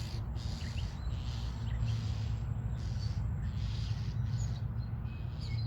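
Songbirds, starlings among them, giving scattered agitated alarm chirps and short calls, mobbing a predator at a nest, over a steady low rumble.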